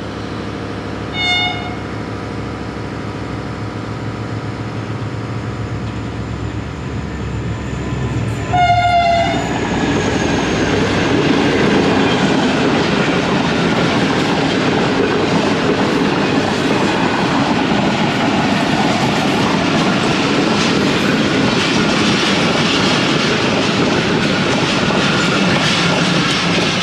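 HGMU-30 diesel-electric locomotive hauling a passenger train in, its engine running steadily, with a short horn toot about a second in and a louder horn blast near nine seconds. From about ten seconds on, the coaches roll past with loud wheel clatter.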